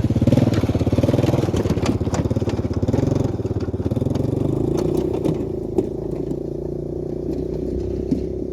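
An engine running steadily with a fast, even pulse, its pitch settling into a steady hum about halfway through. Scattered light clicks and clatter come over it in the first few seconds.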